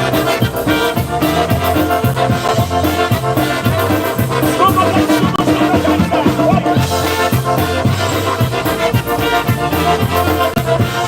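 Live polka band playing an instrumental passage of a polka between sung verses, over a steady, bouncing bass line.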